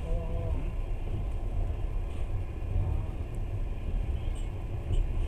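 Steady low rumble of a moving passenger train heard from inside the carriage, with a few faint ticks in the last couple of seconds.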